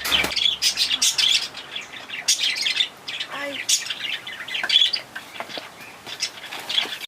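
Small birds chirping rapidly, many short high chirps a second without a break.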